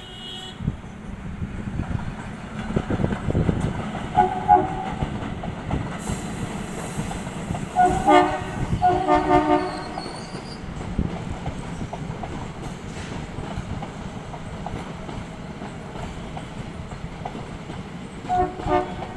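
Janshatabdi Express passenger train running on the rails with a steady rumble and wheel clatter. Its horn sounds in short blasts: once about four seconds in, twice around eight to nine and a half seconds, and once more near the end.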